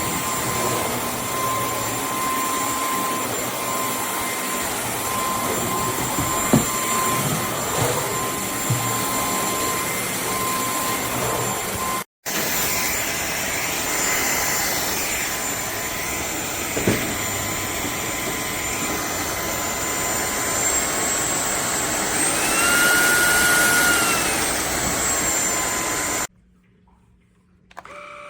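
Vacuum cleaner motor running with a steady whine over rushing airflow. About 21 seconds in the whine rises in pitch and gets louder for a few seconds, then eases back, and the sound cuts off near the end.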